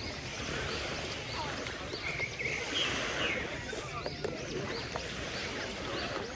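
Beach ambience: a steady wash of sea and wind, with distant voices calling out now and then.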